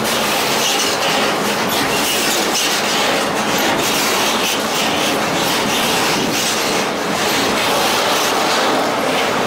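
Railroad cars rolling past close by: a steady, loud rolling noise of steel wheels on rail, with repeated clicks as the wheels cross rail joints.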